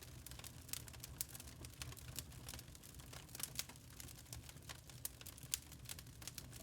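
Log fire crackling in a fireplace: irregular sharp pops and snaps, several a second, over a low steady rumble.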